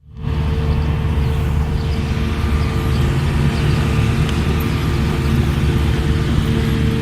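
Steady motor-vehicle hum with a constant low drone, fading in quickly at the start.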